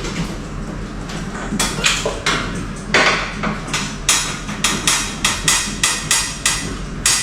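Hand crank of a manual hospital bed being turned to raise the backrest, giving a regular run of clicks and knocks about three times a second, starting a second or two in.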